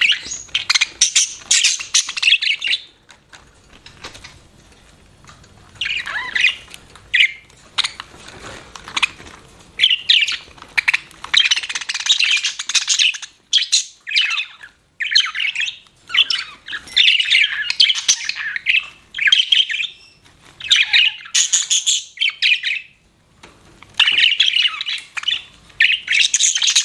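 Budgerigars chirping and chattering in repeated bouts of quick high calls with harsher squawks, broken by short pauses.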